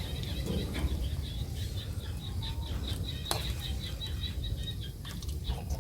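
Rapid, even high chirping, several chirps a second, over a low background rumble, with one sharp click a little past the middle.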